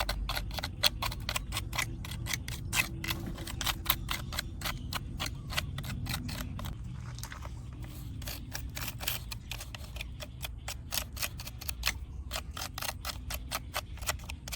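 Rapid series of sharp small clicks, several a second, with a brief pause about seven seconds in.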